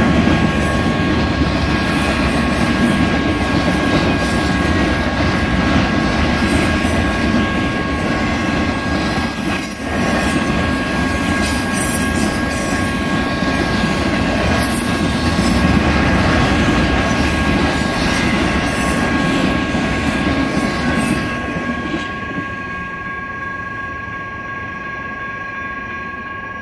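Cars of a BNSF intermodal freight train rumbling and rattling past at a grade crossing, with the crossing's warning bell sounding as a steady two-note ring. About 22 seconds in, the train noise drops away as the last car clears, and the bell keeps ringing.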